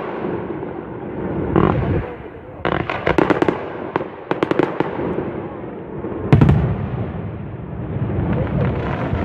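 Fireworks display: quick volleys of sharp crackling reports come in clusters. A single heavy boom about six seconds in is followed by a deep rolling rumble.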